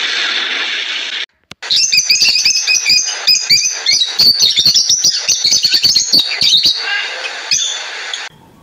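About a second of steady rushing noise, then, after a brief cut, a flock of small birds chirping and twittering rapidly together with many overlapping calls.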